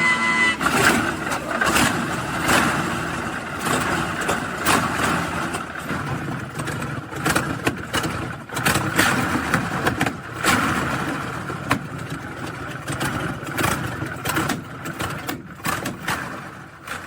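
A BMW V12 aircraft engine of about 46 litres running in a chain-drive special. Its level rises and falls as it is revved, with frequent sharp cracks.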